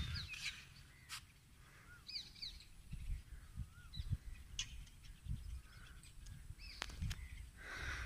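Faint calls of birds in open countryside, short chirps and curving notes every second or so, over an intermittent low rumble of wind on the microphone.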